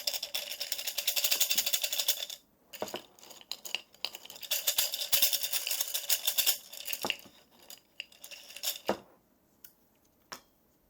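Small hard objects shaken in the hand and rattling in rapid clicks, in two bursts of about two seconds each, followed by a few scattered single clicks and taps.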